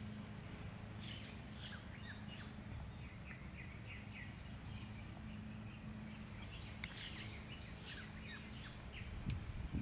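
Woodland ambience: a small bird's run of quick, short falling chirps about a second in and again near the end, over a steady high-pitched whine and a steady low hum.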